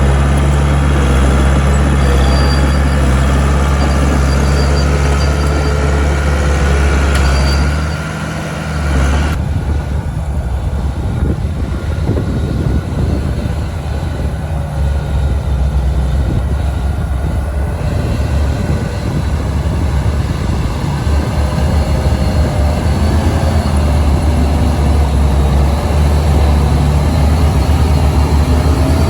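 Heavy diesel engine of earthmoving machinery running steadily with a deep, even hum. It drops briefly about eight seconds in, then continues with a duller sound.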